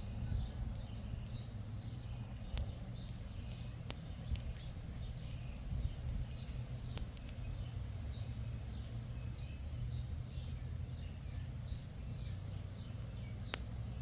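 Outdoor evening ambience by a small campfire: a steady train of short, high chirps about three a second, over a low steady rumble. A few sharp pops from the burning wood come about 2.5, 4, 7 and 13.5 seconds in.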